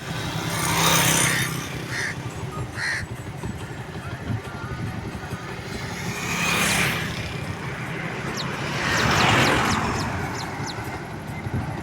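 Motorcycle engine running steadily, driving a machine, with three louder swells of noise. Two crow caws come about two and three seconds in.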